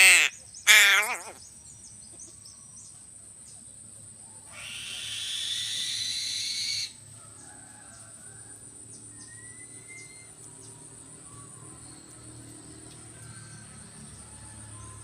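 Crows calling: two loud, harsh caws in quick succession near the start. About four seconds in, a rushing hiss starts and lasts a little over two seconds. A thin, steady high whine runs underneath.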